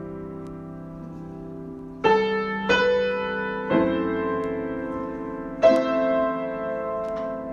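Solo piano improvisation in slow, sustained chords: a held chord rings on and fades, then four new chords are struck, about two seconds in, shortly after, near the middle and a little before the end, each left to ring.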